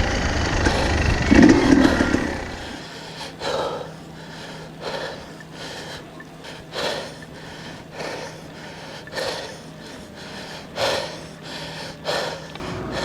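An enduro motorbike engine running close by for the first two seconds or so, then a steady low motor hum from the e-bike's Bafang motor, with short puffs of noise about once a second.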